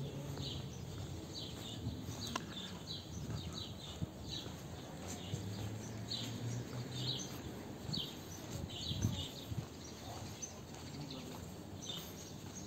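Small birds chirping, many short high chirps in irregular bursts, over a steady low background rumble.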